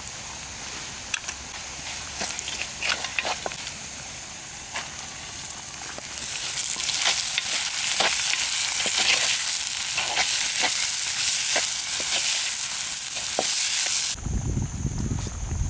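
Food frying in a pan, with scattered clicks of a spoon stirring. About six seconds in the sizzle grows much louder and keeps going with the stirring clicks, then stops abruptly near the end.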